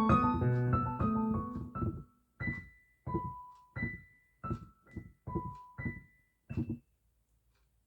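Digital piano on its concert grand voice playing a simple children's tune: a full two-handed passage, then about eight short separate notes, each quickly fading, before the playing stops.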